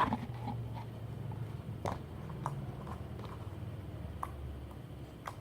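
White PVA glue slime being stretched and squeezed by hand, giving a few faint sticky clicks and pops over a steady low hum.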